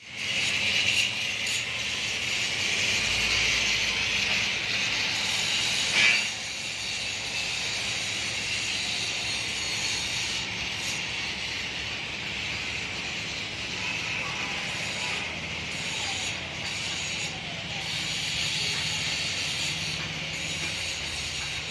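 Mahindra four-cylinder diesel engine of a 30 kVA generator set running steadily, with a hissing mechanical noise, and a single sharp click about six seconds in.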